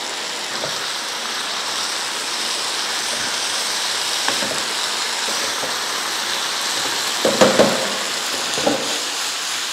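Diced chicken, capsicum, onion and tomato sizzling steadily in a hot nonstick frying pan, stir-fried with a wooden spatula. A few scrapes and knocks of the spatula against the pan break in, the loudest about seven and a half seconds in.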